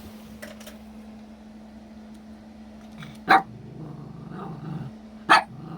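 A dog barking twice, about two seconds apart, with low growling between the barks, aimed at his own reflection in a shiny food bowl that he takes for another dog.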